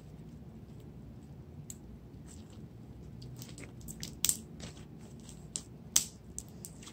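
Slime being squished and kneaded by hand, with scattered small wet pops and clicks, the loudest about four seconds in and near the end.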